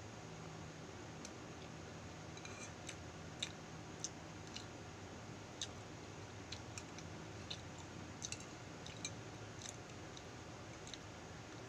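Quiet eating of balut with a metal spoon from a small ceramic bowl: scattered light clicks and clinks of spoon against bowl, with soft mouth sounds, over a steady low hum.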